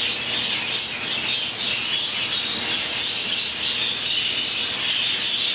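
A flock of budgerigars chirping and chattering in a dense, steady chorus.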